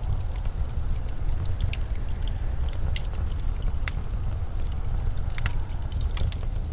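Blizzard wind blowing as a steady deep rumble, with scattered sharp little ticks over it.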